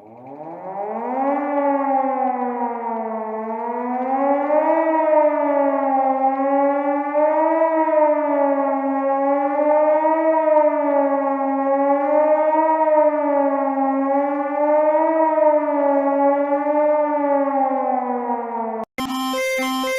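Civil defense warning siren winding up from a low pitch, then wailing with a slow rise and fall in pitch about every two and a half seconds. It sags slightly and cuts off abruptly near the end.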